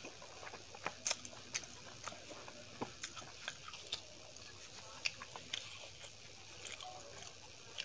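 Close-miked eating sounds: wet mouth clicks and smacks of chewing rice and dal palak, with fingers squishing through the food. Irregular sharp clicks come several times a second over a steady hiss, and near the end a thin rumali roti is torn by hand.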